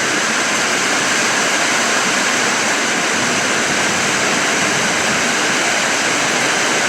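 Loud, steady rush of water noise with no pauses, from heavy storm water.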